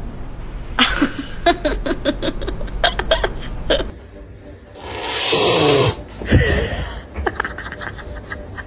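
A cat hissing and crying out at a hair clipper, with a loud breathy hiss and a sliding, wailing call about five seconds in. Short choppy sounds, which may include laughter, come before and after.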